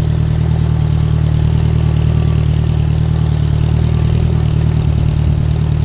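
Farm tractor's engine running at a steady speed as the tractor is driven, a low, even drone.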